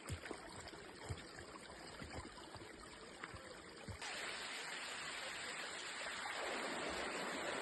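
Water from a mountainside spring or stream rushing and splashing, a steady hiss that gets clearly louder about halfway through and keeps swelling. A few light knocks sound in the first half.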